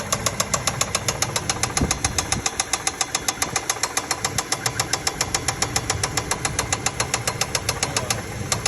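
2000 Chevy Tahoe Limited's V8 engine running at idle with a rapid, steady ticking knock, about nine ticks a second. The owner doesn't know what is making the noise.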